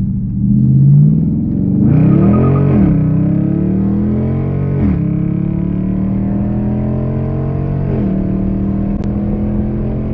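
Straight-piped 5.7 Hemi V8 exhaust, loud, with a quick rev a couple of seconds in. Then the car accelerates, its pitch climbing and dropping sharply at two upshifts.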